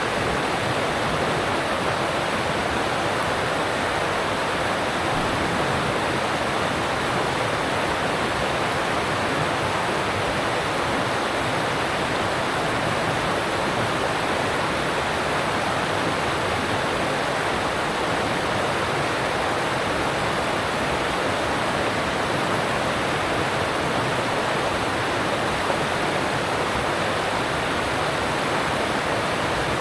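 Alpine stream water rushing steadily over rocks, a constant even roar of running water.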